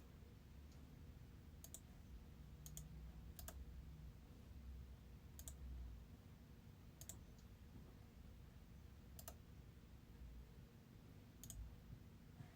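Near silence with a faint low hum, broken by about seven small, sharp clicks at irregular intervals of one to two seconds.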